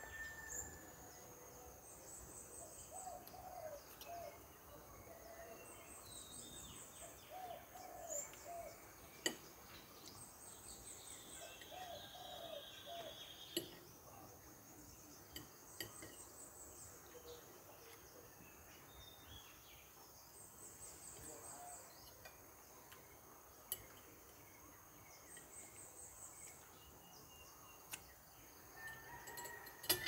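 Several birds calling faintly: a high, trilled call recurring every few seconds, a few lower short phrases, and a handful of sharp clicks.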